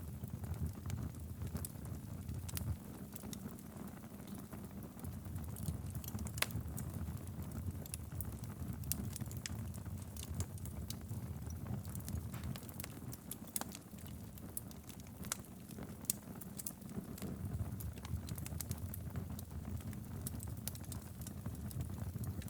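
Log fire burning in a fireplace: a steady low rumble of flames with frequent sharp crackles and pops at irregular intervals.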